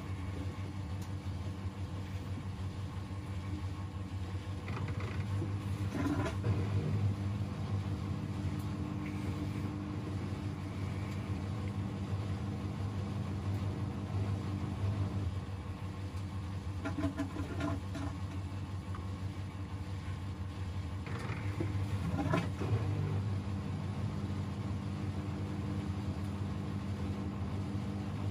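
Washing machine drum spinning on a down-bedding program, its motor giving a steady hum, with a few soft knocks from the load about 6, 17 and 22 seconds in.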